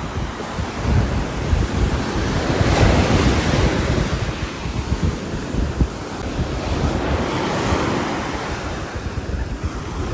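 Steady heavy rain on a roof with gusting wind, a continuous rushing noise that swells louder about three seconds in and again near eight seconds.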